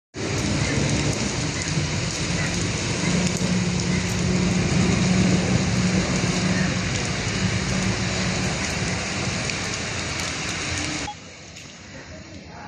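Heavy rain pouring steadily, with a low hum underneath. The sound drops off abruptly about eleven seconds in, leaving quieter rain.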